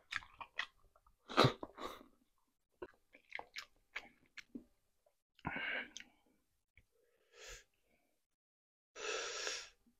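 Close-miked mouth sounds of a person eating rotisserie chicken: wet chewing clicks and smacks, then two short breathy bursts, one midway and one near the end.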